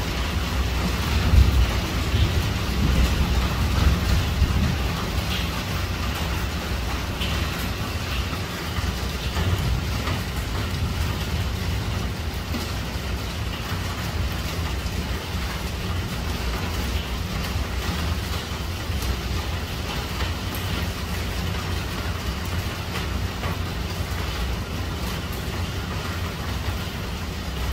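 Heavy rain pelting down on tiled roofs: a steady, dense hiss of rain with a deep low rumble under it.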